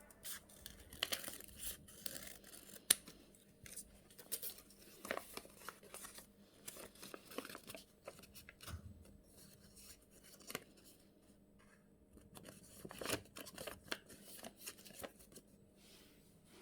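A sheet of paper being handled and folded: faint, irregular crinkles, creases and rustles, with a brief quieter gap about two-thirds of the way through.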